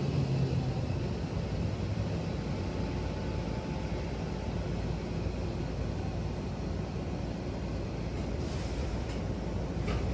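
Hankyu train car heard from inside as it comes to a stop at a station: a low motor tone fades out in the first second, leaving a steady rumble. About eight and a half seconds in there is a short burst of air hiss, and a click follows near the end.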